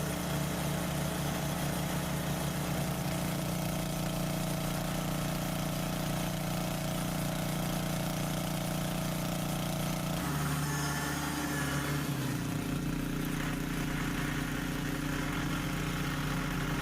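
Mahindra tractor's diesel engine running steadily. About ten seconds in its note shifts, and a moment later the pitch briefly falls.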